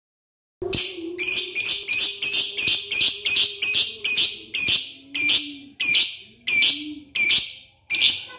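Lovebird's long 'ngekek' chatter: a run of harsh, high, rasping notes at about two a second, spacing out a little toward the end, with a faint low steady tone under the first half.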